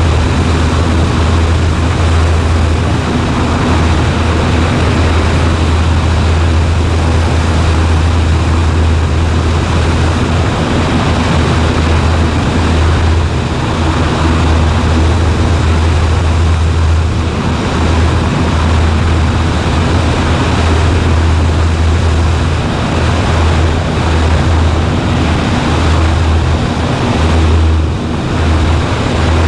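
Cessna 140A's engine and propeller running steadily in flight: a loud, even low drone with a hiss over it and no change in pitch.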